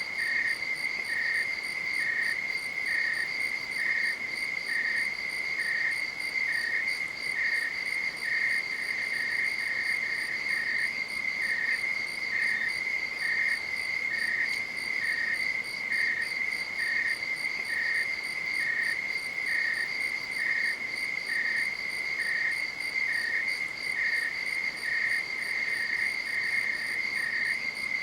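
Night insects chirping: a steady, unbroken high trill, with a second insect's shorter chirp repeating about once a second just beneath it.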